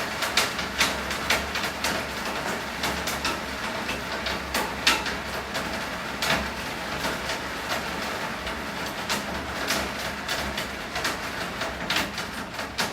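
Steady rain with many irregular drops tapping sharply on a hard surface, one louder tap about five seconds in.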